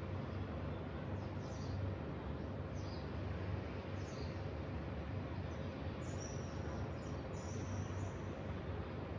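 Outdoor morning ambience: a steady low rumble with a faint hum, and small birds chirping briefly now and then, with a busier run of chirps around six to eight seconds in.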